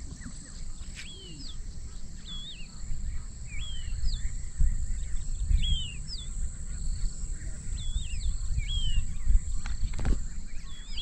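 Birds calling over and over with short, sweeping whistled notes about once a second. Underneath runs a steady high insect drone, and gusty wind rumbles low on the microphone.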